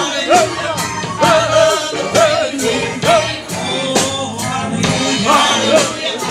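Live gospel praise music: voices singing over a band with a steady drum beat, about two hits a second.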